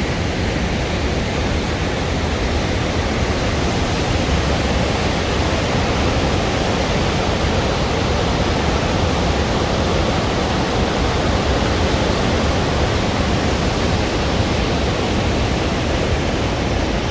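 The Rhine Falls, a large river waterfall, heard up close: a steady, loud rush of falling water.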